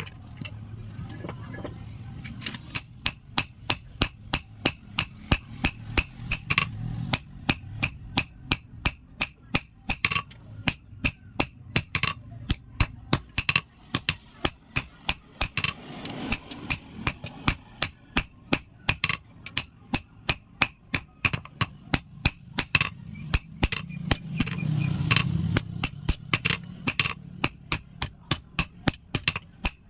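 A blacksmith's hammer strikes iron on an anvil in a steady rhythm of about three blows a second, with a bright metallic ring on many of the blows. The blows are sparser for the first couple of seconds.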